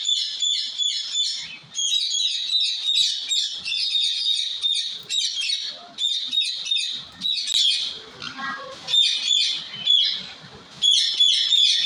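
A small bird singing in fast runs of repeated high chirps, several a second, with brief pauses between the runs.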